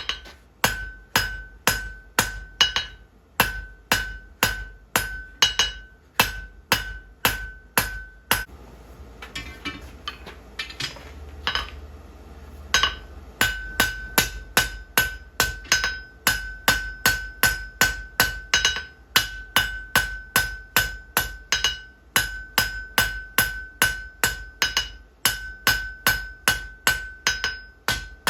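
Blacksmith's hammer striking on an anvil in a steady rhythm of about two to three blows a second, each blow ringing. About eight seconds in, the blows stop for four seconds or so, with only light clinks, then resume at the same pace.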